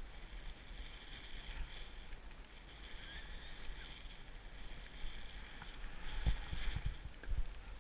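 Skis hissing as they slide through deep snow, with wind rumbling on the microphone; a few low thumps come near the end.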